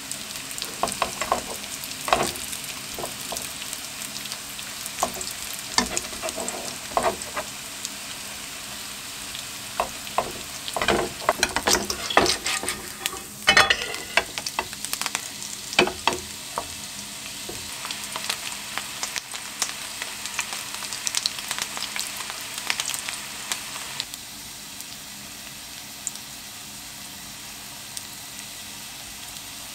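Batter-coated julienned sweet potato sizzling in oil in a nonstick frying pan over low heat, with repeated scrapes and taps of spatulas pressing and flipping the strips, busiest around the middle. For the last few seconds only a steady, quieter sizzle remains.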